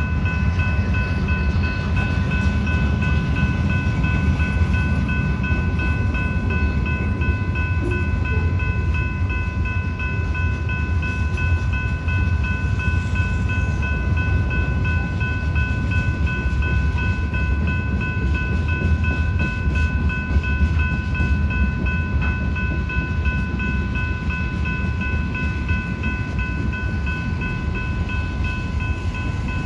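Freight cars rolling steadily past with a continuous low rumble. Over it a grade-crossing bell rings without a break, a steady high-pitched ringing.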